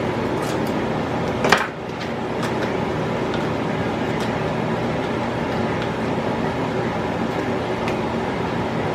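A steady mechanical hum, like a fan or air conditioner running, with one short clink about a second and a half in and a few faint ticks.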